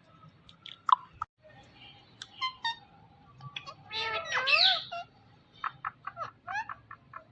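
Pet green parrot calling: scattered short chirps, a louder, longer call with wavering pitch about four seconds in, then a quick run of short chirps near the end.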